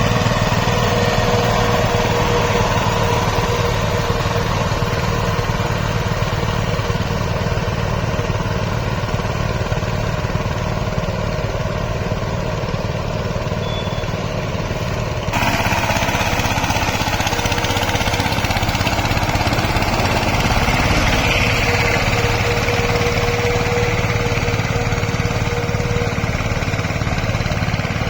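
Mini tractor's diesel engine running steadily while puddling a flooded rice paddy. The sound changes abruptly about halfway through.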